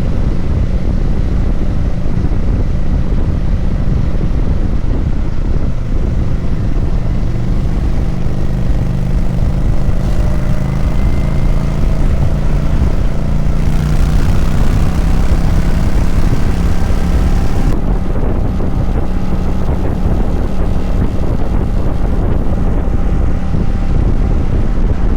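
Kawasaki Vulcan 900 V-twin engine running steadily on the road, with wind rushing over the microphone. For a few seconds in the middle a brighter hiss of wind or road noise swells, then drops back.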